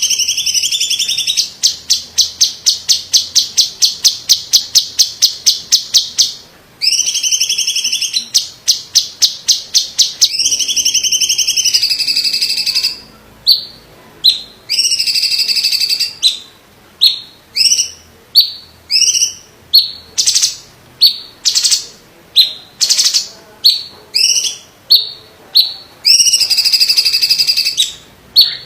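Cucak ijo cungkok (green leafbird) singing loudly and shrilly. Long warbled phrases alternate with runs of quick repeated notes, about four or five a second. Through the middle stretch the song breaks into single sharp notes about one or two a second.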